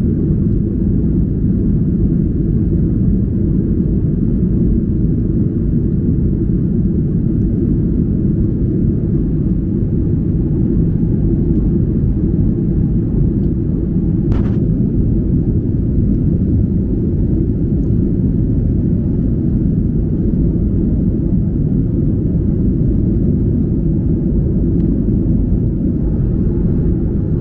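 Steady low rumble of engine and air noise inside the cabin of a Boeing 737-800 with CFM56 engines, with a single short click about fourteen seconds in.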